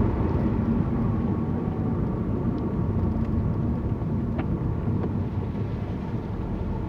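Car driving along, heard from inside the cabin: a steady engine hum and road rumble, with a faint click about four seconds in.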